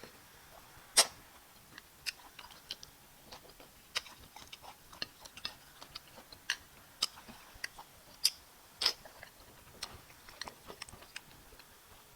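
Close-miked chewing and wet lip-smacking of someone eating fufu and bitter leaf soup: irregular sharp mouth clicks and smacks, the loudest about a second in and twice close together near the end.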